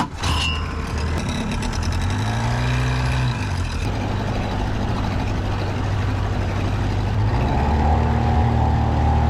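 Outboard motor on a small aluminum fishing boat running steadily under way, a low, even hum with a few steady higher tones.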